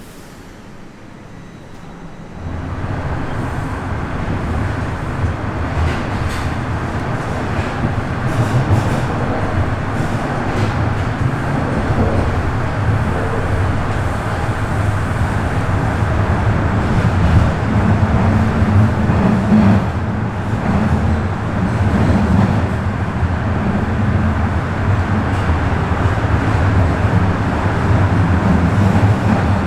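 Bombardier Toronto Rocket subway train pulling away. Fairly quiet at first, then about two seconds in the motor and wheel noise jumps up and keeps building as the train gathers speed through the tunnel.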